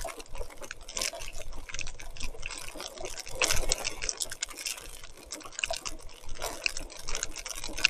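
Rain and wet mud spattering and dripping on a mountain bike ride: an irregular run of small wet clicks and splashes, a little louder about three and a half seconds in.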